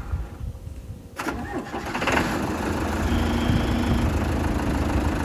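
Backhoe engine being started by jumping the starter with a screwdriver. It cranks unevenly, breaks off sharply about a second in as the starter kicks out and is hit again, then catches and runs steadily.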